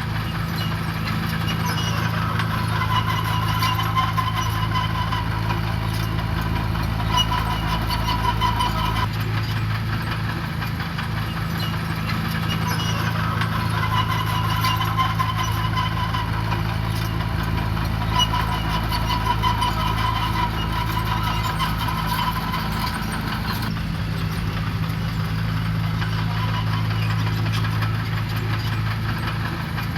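Diesel engine of heavy road-building machinery running steadily. A higher note over it swells and fades several times as the machine works.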